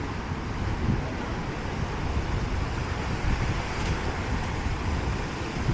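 Wind buffeting the microphone in uneven gusts of low rumble, over a steady rushing noise.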